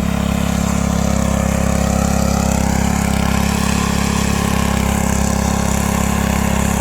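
Small engine of a garden tiller running steadily as it works through garden soil, its pitch and loudness holding even.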